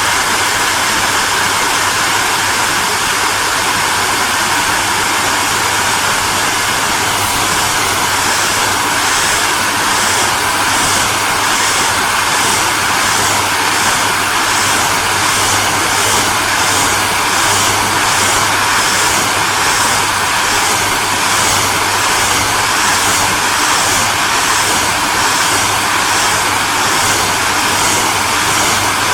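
Electric hairdryer running steadily: an even rushing hiss of blown air over a low motor hum. From about seven seconds in, a slow, regular pulsing comes into the high part of the hiss.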